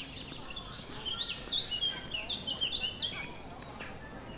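A songbird singing a quick, varied phrase of high chirps and short trilled notes for about three seconds, over faint chatter of people nearby.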